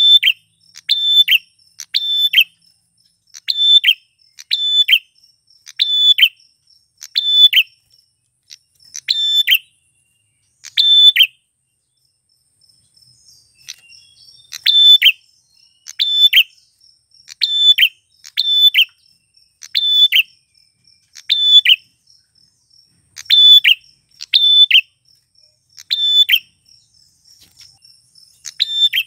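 Male prenjak klawu (a prinia) calling, a string of sharp high notes about once a second with a pause of a few seconds in the middle. A faint steady high whine runs beneath.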